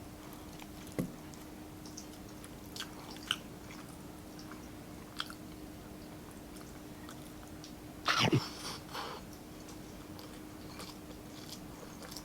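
A person eating close to the microphone: chewing, with scattered soft wet mouth clicks and one louder, longer mouth sound about eight seconds in. A faint steady hum runs underneath.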